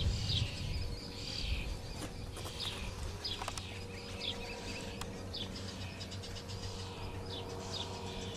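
Small birds chirping, short falling chirps about one or two a second, over a faint steady hum.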